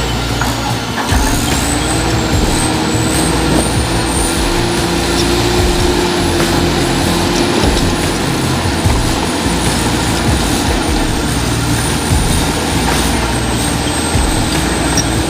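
Bulldozer's diesel engine running hard with a dense low rumble. Its pitch rises about a second in and eases off after about eight seconds, with a thin high whine above it throughout.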